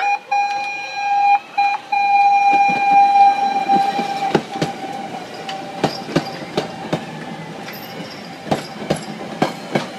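Chicago 'L' rapid-transit train sounding its horn on approach: one long blast, broken twice briefly near the start, fading after about four seconds. Then the passing cars' wheels clack over the rail joints in a steady run of sharp clicks.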